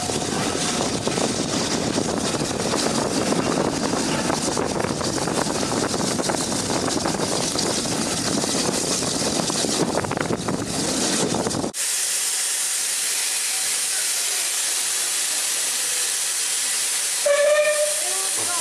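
Steam locomotive letting off steam: a loud rushing noise that cuts off abruptly about twelve seconds in, leaving a steady high hiss. A short whistle blast sounds near the end.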